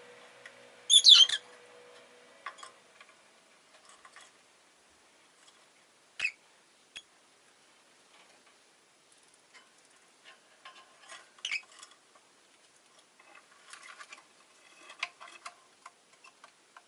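Rosy-faced lovebirds giving a few sharp, shrill single calls, the loudest about a second in and others near the middle and toward the end. Soft clicks and scratching from the birds moving about fill the gaps.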